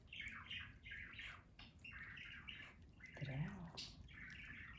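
A small dog licking and chewing at a toothpaste-smeared dental toy in a bowl, a run of quick wet smacks about three or four a second.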